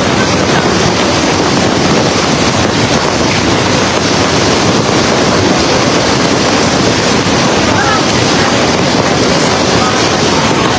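Heavy storm rain mixed with hail pouring down: a loud, steady, unbroken hiss.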